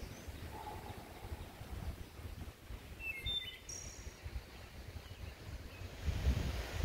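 A few short bird chirps about three seconds in, over a low rumble on the microphone that grows louder near the end.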